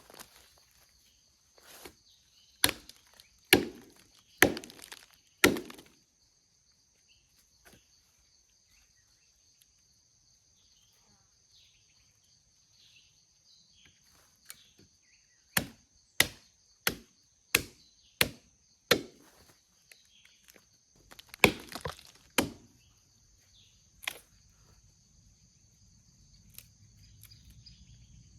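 Chopping into the resinous wood of a fallen pine to cut off fatwood: sharp wooden chops in spells, the middle spell quicker, about two a second. A steady high insect drone runs underneath.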